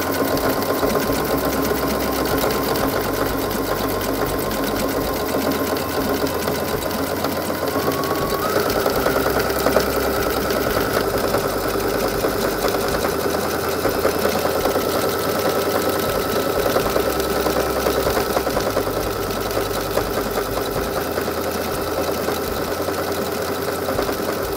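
Brother NQ470L computerized sewing machine running steadily, stitching a decorative heart pattern through denim. Its motor whine steps up in pitch about eight seconds in.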